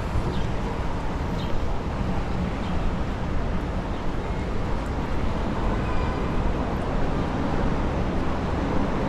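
Steady low rumble of city vehicle noise, with no single event standing out.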